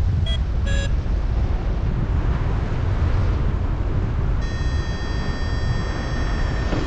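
Wind rushing over the microphone in flight, loud and low. A paragliding variometer beeps twice near the start, then sounds one held tone from a little past halfway.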